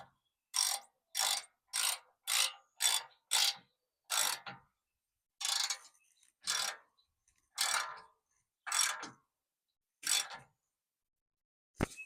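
Hand socket ratchet being worked to tighten the bumper mounting bolts, each back-stroke a short clicking rasp of the pawl. About a dozen strokes, about two a second at first, then slower and further apart.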